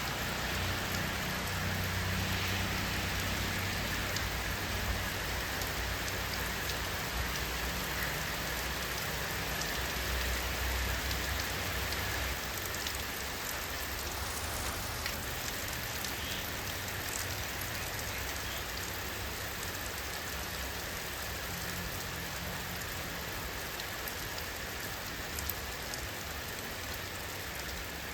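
Steady rain falling, an even hiss with scattered small drop ticks. A low rumble underneath is stronger in the first half and fades away after about twelve seconds.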